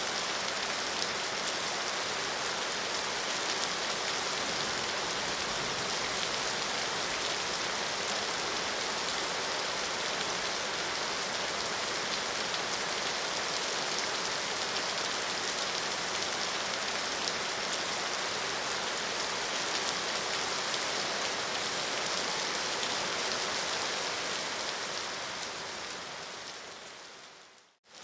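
Steady rain falling on a surface, an even dense patter. It fades out over the last couple of seconds.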